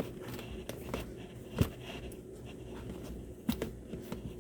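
A product box being opened by hand: scraping and rustling of the packaging with a few sharp knocks, the loudest about a second and a half in and another near three and a half seconds.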